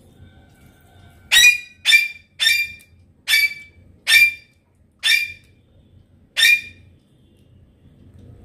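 A bird calling seven times in a row, short loud calls roughly one a second, starting about a second in and stopping a little before the end.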